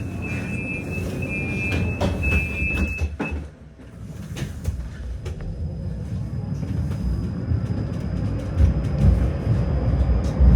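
Tram door-closing warning beeps, a repeating two-tone pattern for about three seconds. After a short lull the tram pulls away, the low rumble of wheels and motors building steadily, with a thin steady high whine over it.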